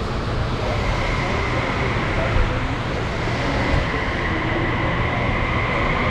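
Steady crowd chatter and hall noise, with a steady high tone coming in about a second in and holding.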